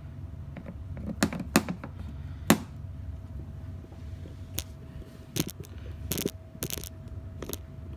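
Scattered light clicks and knocks of hands and a cleaning tool working around a dishwasher's plastic interior, about ten at uneven spacing, the loudest about two and a half seconds in, over a steady low hum.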